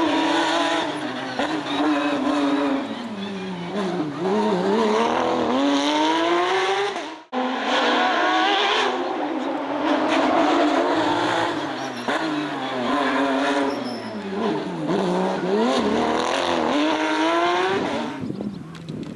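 Porsche 992 Rally GT's flat-six engine at full rally pace, its pitch falling as it brakes and shifts down for corners and rising again under hard acceleration, several times over. The sound breaks off for an instant about seven seconds in.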